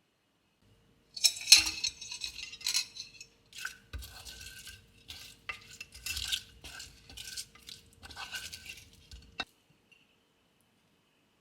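Kitchen utensil scraping and stirring against a dish or pan in a run of short strokes, stopping suddenly near the end.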